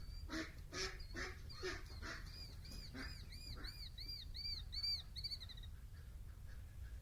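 A bird sings a quick run of about nine repeated, arching whistled notes in the middle of the stretch. Before it comes a series of soft clacks, about two or three a second.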